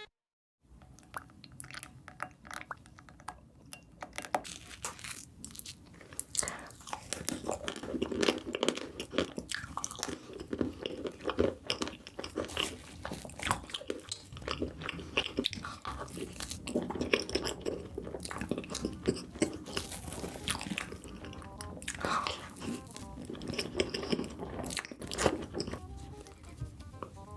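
Close-miked eating of chocolate: crisp crunching bites and steady chewing, a dense crackle of small snaps that begins about half a second in.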